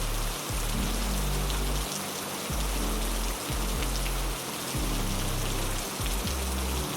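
Heavy rain falling as a steady, even hiss with scattered drop ticks. Underneath it are low held musical notes that change every second or two.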